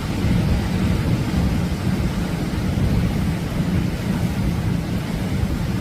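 Atlantic surf breaking steadily on the beach, a continuous rush of wave noise with a low, uneven rumble of wind on the microphone.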